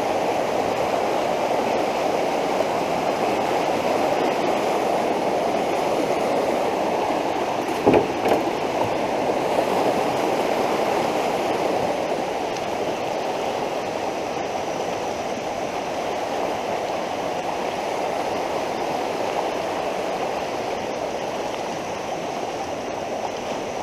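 Fast, high floodwater of a creek rushing steadily. There is a single knock about eight seconds in.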